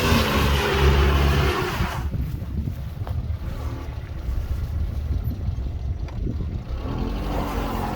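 Mitsubishi Pajero iO's 2.0-litre petrol engine revving hard with a loud hiss for about two seconds as the stuck wheels spin in wet grass. It then drops suddenly to a low rumble and revs up again near the end.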